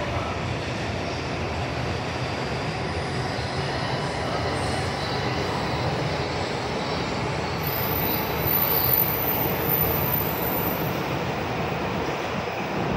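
Electric commuter trains in a station: a steady low rumble of rolling stock, with a thin, very high squeal from about eight to eleven seconds in.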